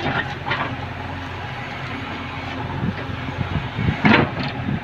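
Excavator's diesel engine running steadily on a digging site, with one brief louder sound about four seconds in.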